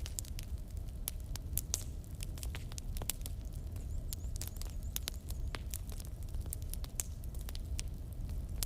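Wood fire burning in a fireplace: logs crackling and popping with irregular sharp snaps, several a second, over a steady low rumble of the flames.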